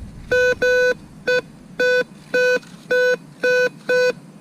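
Metal detector beeping over a buried target, a short steady-pitched tone repeated about twice a second. The detectorist takes the target for a can.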